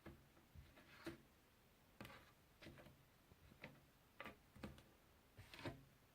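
Faint, irregular clicks and taps of puzzle pieces being handled, several of them in quick pairs.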